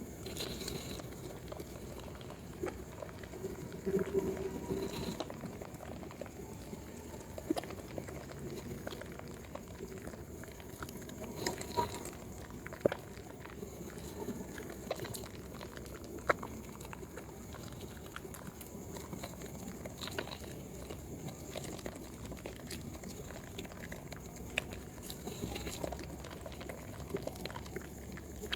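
Hands working a wet, soaked bar of Proguard yellow soap: steady soft wet squishing and lathering, with scattered sharp little clicks and pops.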